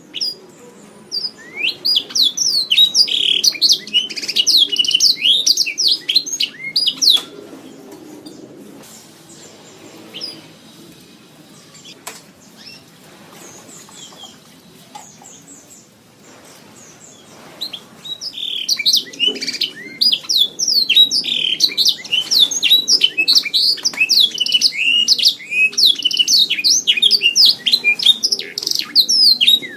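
Domestic canary singing fast warbling, trilling song. It breaks off after about seven seconds, leaving only faint chirps for about ten seconds, then takes up the song again.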